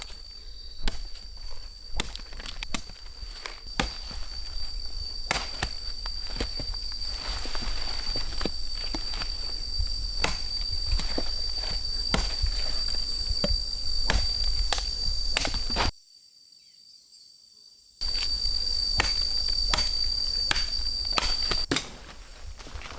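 Footsteps and rustling, with irregular crunches and snaps, under the steady, unbroken high drone of an insect. Everything cuts out for about two seconds after the middle, then resumes.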